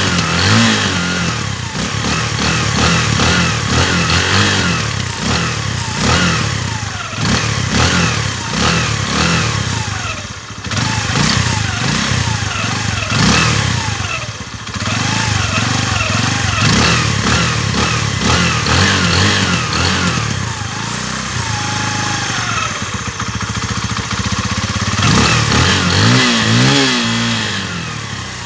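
RKS 150 Sports Evo motorcycle engine running and being revved again and again, its pitch rising and falling with each blip of the throttle. It settles to a steadier idle for a few seconds past the middle, then is revved again near the end.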